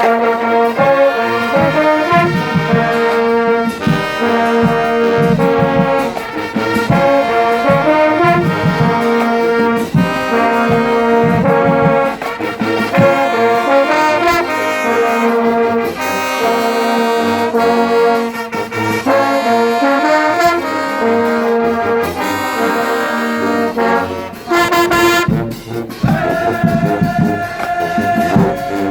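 High school marching band playing with a full brass section of trumpets and trombones over drums. Near the end the band holds one long sustained chord.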